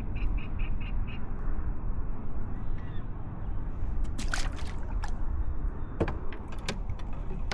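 Steady low rumble of wind on the microphone, with a bird calling a quick series of about six short high notes at the start and a few sharp clicks and knocks around the middle.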